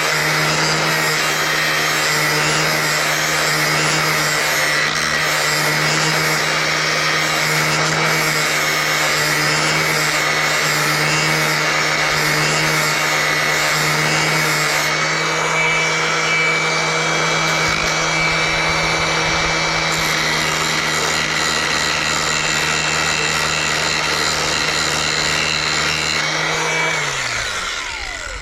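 Angle grinder with a flap disc running steadily as it grinds the steel edge of garden shears. Near the end it is switched off and winds down, its hum falling in pitch.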